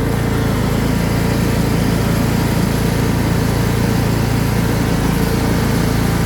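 Troy-Bilt riding lawn mower engine running steadily while the mower is driven along.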